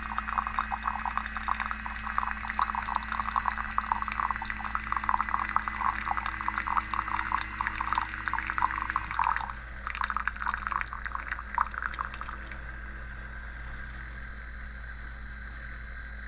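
Water heating in the GEVI coffee machine's electric kettle, bubbling and crackling toward the boil. The bubbling fades out about twelve seconds in, leaving a steady low hum as the kettle reaches temperature.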